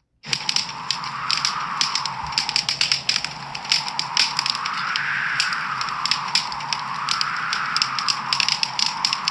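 Wood fire crackling, with many sharp pops over a soft hiss that slowly swells and fades every few seconds. The sound drops out for a moment right at the start.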